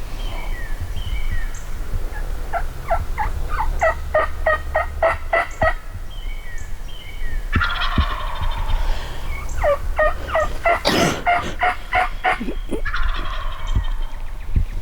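Wild turkey gobbler gobbling twice, each a long run of quick rattling notes, the first about two seconds in and the second near ten seconds, over a steady low wind rumble.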